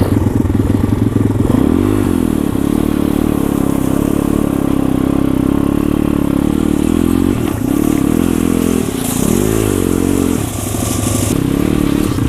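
Small pit-bike engine running under way, the revs rising and falling several times as the throttle is worked.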